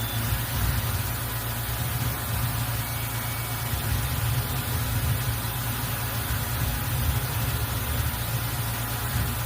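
CNC mill running steadily while engraving a name plate: an even low hum with a few steady tones above it and a constant hiss.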